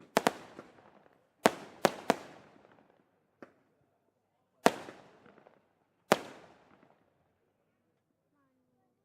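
Daytime fireworks display: sharp aerial shell bursts, about seven loud bangs, some in quick pairs, each trailing off in a rolling echo.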